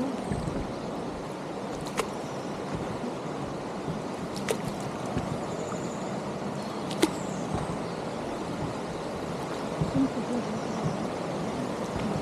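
Steady rush of flowing water, with a few sharp clicks about two, four and a half and seven seconds in.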